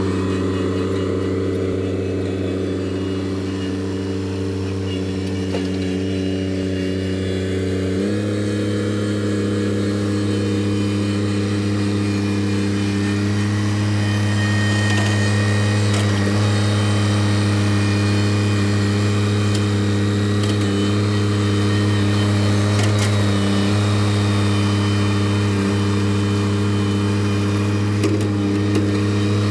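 An engine running steadily at a constant speed, which steps up slightly in pitch about eight seconds in and holds there; it is most likely the machine being used to spread gravel.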